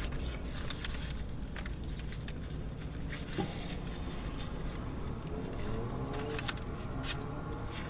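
Steady low background hum with scattered sharp crinkles and clicks from a foil-wrapped sandwich being handled and eaten.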